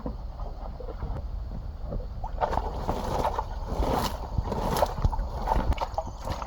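Water splashing and sloshing, with light irregular knocks; the splashing grows busier about two seconds in.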